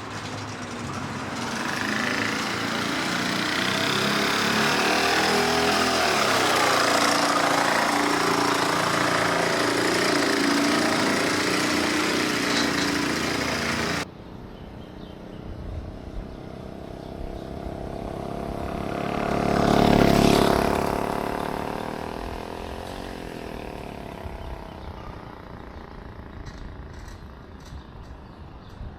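Solex 1700's small two-stroke engine running while the bike is ridden, its pitch shifting with speed. After an abrupt cut about halfway, it approaches, passes at its loudest and fades away.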